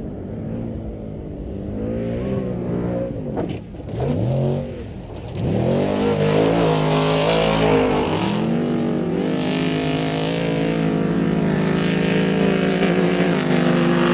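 Off-road race truck engine revving hard: its pitch drops and climbs again several times in the first five seconds, then holds high and steady.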